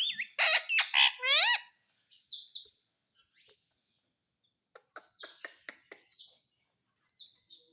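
Pet parrot calling. It opens with a loud burst of wavering, sliding calls in the first second and a half, then gives soft, short high chirps and a few sharp clicks.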